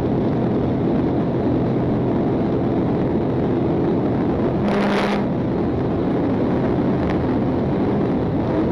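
Police Dodge Charger running hard at high speed in a pursuit: steady engine and road noise, with a short burst about five seconds in.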